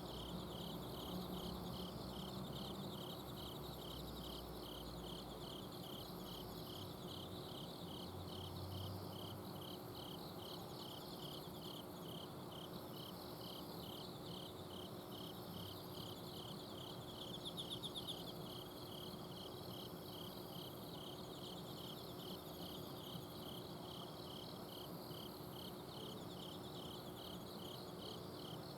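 A night chorus of autumn insects: a cricket chirping in an even, steady rhythm, with fainter trilling insects layered above it and a brief louder trill about two-thirds of the way in. Under it runs a faint steady hum from an air conditioner's outdoor unit.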